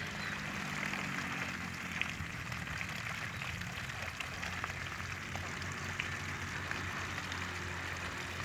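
A flock of domestic ducks dabbling and foraging in a flooded rice paddy, a steady wet crackling and pattering with scattered small clicks. A low steady hum runs underneath.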